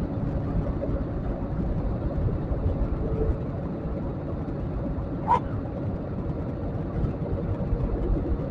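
Steady low noise of a jet airliner's engines and airflow, heard inside the passenger cabin, with a faint steady hum. One brief sharp sound comes about five seconds in.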